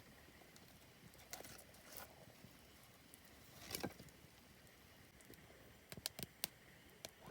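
Wood campfire crackling faintly: scattered sharp snaps and pops over a low hiss, with a quick run of several snaps about six seconds in.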